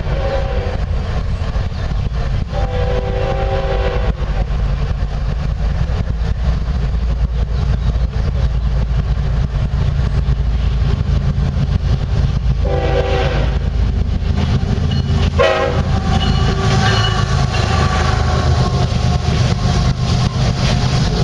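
Diesel freight locomotives running under load with a heavy steady rumble, the air horn sounding in separate blasts: one just ending as the sound begins, one from about 2.5 to 4 seconds in, one of about a second near 12.5 seconds and a short one near 15.5 seconds.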